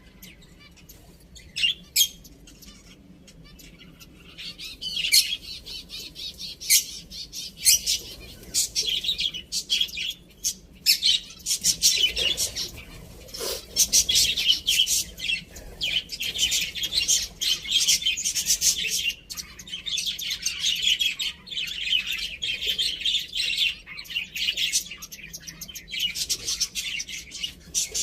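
Many small birds chirping in quick, high, overlapping calls, sparse at first and becoming a dense, continuous chatter by the middle.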